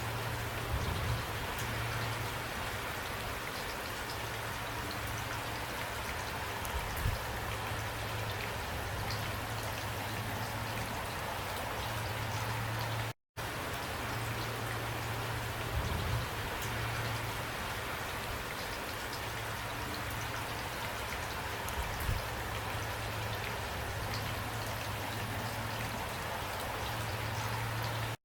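Steady rain falling, with a few brief louder taps. The sound cuts out for an instant about halfway through.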